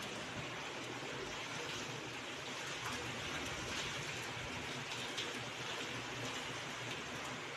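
Rain falling steadily outside a window, an even hiss.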